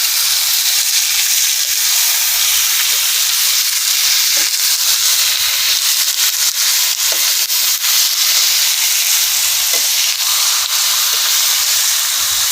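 Chicken pieces sizzling as they fry on high heat in hot mustard oil in a kadhai: a loud, steady hiss with scattered small crackles.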